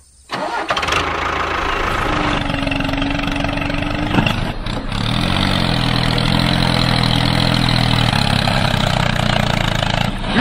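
A small engine running steadily; its pitch dips and climbs back briefly about five seconds in.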